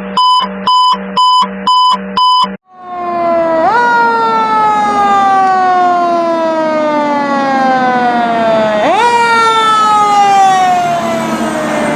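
Rapid electronic beeping, about two beeps a second, stops about two and a half seconds in. Then a fire apparatus siren comes in: its pitch jumps up quickly and falls slowly over several seconds, twice.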